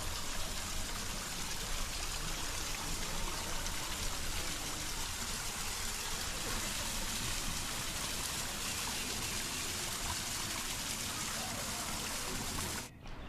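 Stream water rushing steadily, an even hiss that cuts off abruptly near the end.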